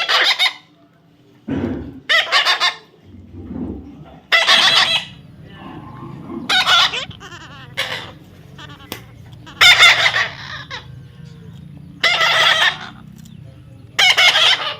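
A pet parrot screeching over and over: about seven loud, harsh squawks, each about half a second to a second long, coming roughly every two seconds.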